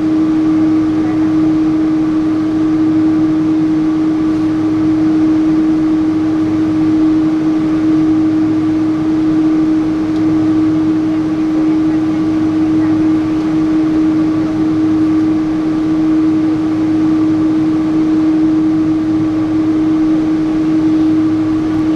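Steady cabin drone of a Boeing 777-300 airliner, engine and airflow noise, with a constant pitched hum running through it.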